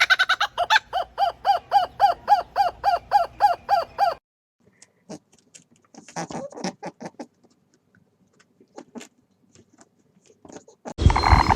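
A bird giving a fast run of short, repeated calls, about three or four a second, that stops about four seconds in; a few faint, scattered calls follow, and a different loud animal sound cuts in near the end.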